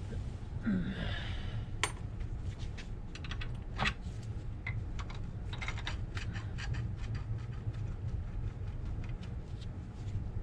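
Light metallic clicks and clinks of brake assembly parts being handled, with a short scrape about a second in and two sharper clicks near two and four seconds, over a steady low hum.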